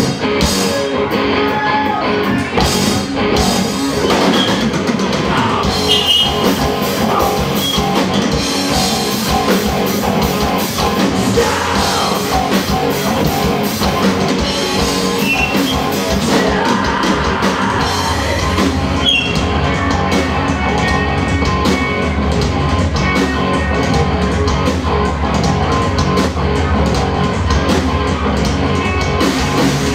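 Rock band playing live: electric guitars, bass and drum kit, the low end growing heavier about two-thirds of the way through.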